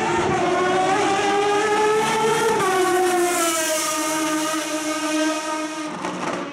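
Ferrari FXX's V12 racing engine, high-pitched at high revs: its pitch climbs for about two and a half seconds, drops sharply, then holds steady before changing abruptly near the end.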